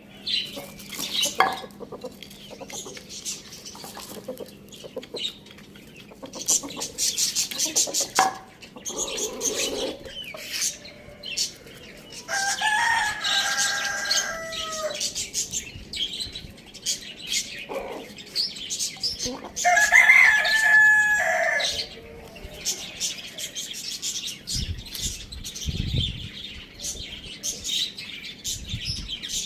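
A rooster crowing twice, each crow a long call of about two seconds that drops in pitch at its end. Short clucks and high chirps come between the crows.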